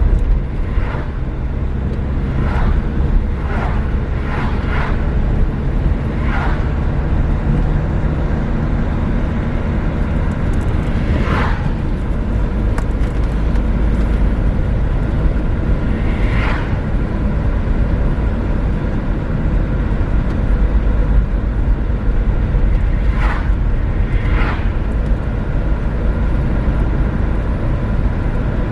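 Renault Megane III being driven, a steady low rumble of engine and road noise, with short sharp knocks or rattles now and then.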